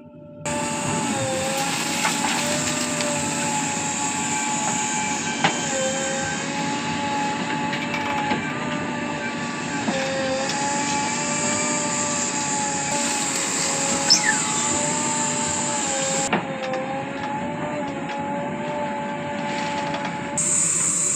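JCB 3DX backhoe loader's diesel engine and hydraulics working under load: a steady whine that sags briefly every few seconds as the machine cycles, with a few sharp clanks.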